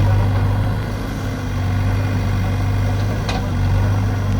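Heavy diesel engine of a tractor or earth-moving machine running steadily at idle, a steady low drone. A single sharp click is heard about three seconds in.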